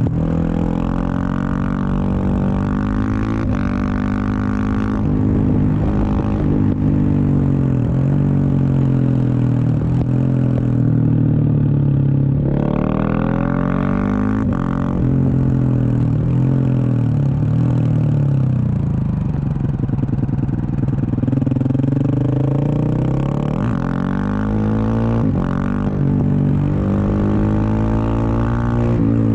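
Husqvarna 701 Supermoto's single-cylinder engine breathing through an aftermarket Wings exhaust, pulling through the gears on the road. The engine note climbs, drops back at each shift and climbs again, several times over.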